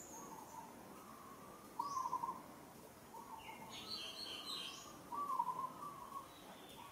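A bird calling over and over, a short note roughly every second or so, the loudest about two seconds in and again past five seconds. Midway comes a brief burst of higher chirps from another bird.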